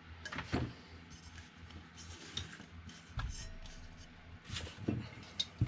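Hands handling 3D printer parts and cables: scattered light knocks, clicks and rubbing, over a low steady hum.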